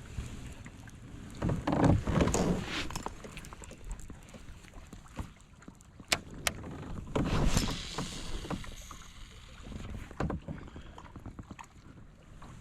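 Water splashing and sloshing against a kayak, in two louder spells a few seconds apart, with a few sharp knocks on the hull.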